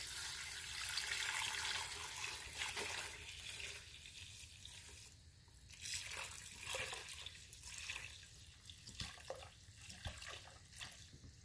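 Evapo-rust rust remover being poured into a container of shifter parts: a steady pouring stream for about the first three and a half seconds, then scattered drips and small knocks.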